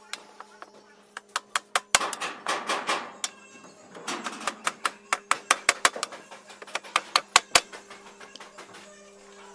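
Hand-hammer blows and taps on metal, a quick irregular run of sharp strikes that thickens from about two seconds in and thins out near the end, over a steady low hum.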